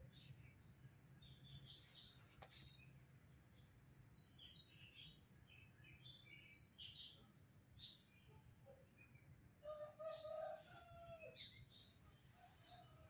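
Faint birds chirping, many short high chirps one after another, with a lower, longer call about ten seconds in.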